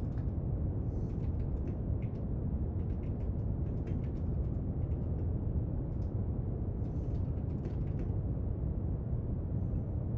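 Steady brown noise, deep and even, with faint soft clicks and scratches of desk work coming in three small clusters.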